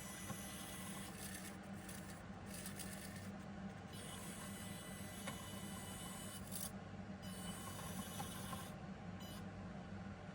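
Faint whirring of a miniature 1:87-scale RC truck's tiny electric motors, starting and stopping several times over a steady low hum.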